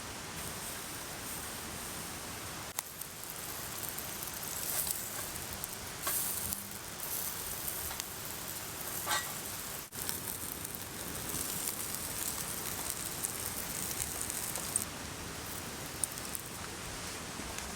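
Bonjiri (chicken tail) yakitori grilling over charcoal, sizzling steadily with crackles and a few sharp pops as the fat spits.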